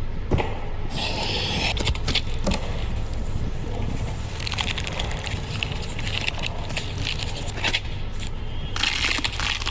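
MV Agusta motorcycle engine running at a steady idle: a continuous low exhaust rumble with irregular crackles and clicks over it.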